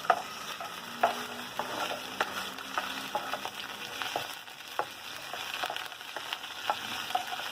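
Shrimp sizzling in hot oil in a wok over high heat, with a spoon clicking and scraping against the pan every half second or so as they are stirred.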